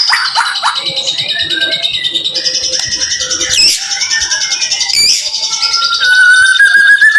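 A white-rumped shama (murai batu) singing its rapid-fire 'tembakan' song: a fast run of high repeated notes with two quick sweeping calls, then a clear, slightly wavering whistle in the last second or so.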